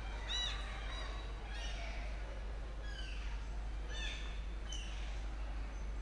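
Birds calling: short, arching, high calls that come again and again, about one every half second to second, over a steady low hum.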